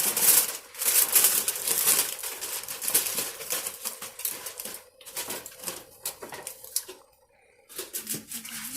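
Aluminium foil crinkling and crackling as it is handled and crimped over a cooking pot. It dies down about seven seconds in, then a few lighter crackles follow near the end.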